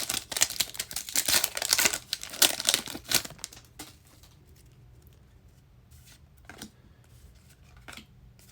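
Trading card packaging being torn open and crinkled in quick, loud rips and rustles, dying down about three and a half seconds in to a few light rustles and clicks of handling.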